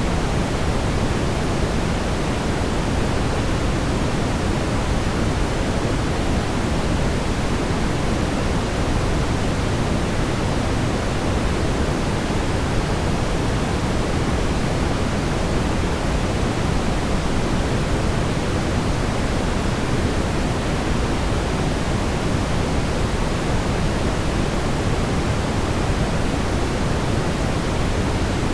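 Steady brown noise: an even, unbroken rushing hiss, strongest in the low rumble and falling away toward the highs, with no change in level.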